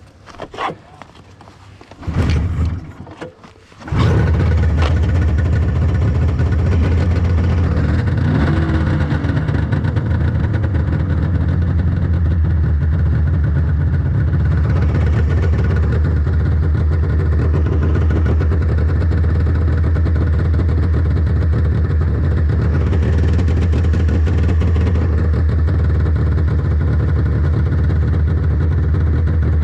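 1997 Polaris XCR 600 snowmobile's three-cylinder two-stroke engine with factory triple pipes starting: a short burst of firing about two seconds in, then it catches about four seconds in and runs steadily.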